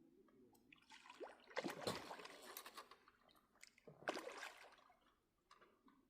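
Water splashing and sloshing in two bursts, one about a second and a half in and a shorter one about four seconds in.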